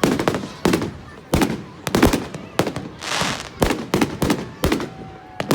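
Firework cake firing its last barrage: a rapid, irregular string of sharp bangs, two or three a second, with a short crackling hiss about three seconds in.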